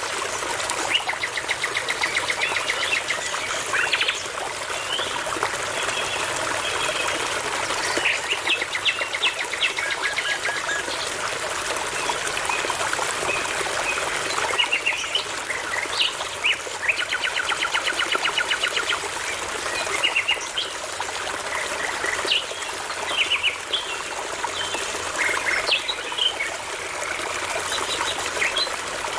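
Songbirds singing over a steadily babbling brook. Short varied phrases come one after another, several of them fast runs of repeated notes, such as near the start, about eight seconds in, and around seventeen seconds.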